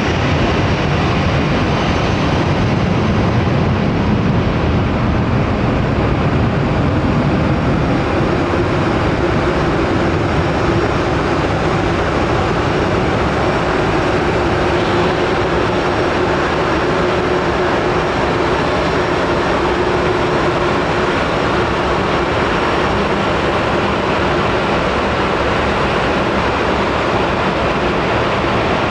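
Jet airliner engines running, a loud steady rush of noise, with a faint steady hum coming in for several seconds partway through.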